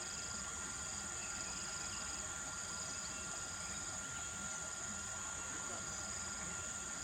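Insects chirring in a steady high-pitched drone, with a second, lower trill starting and stopping every second or so.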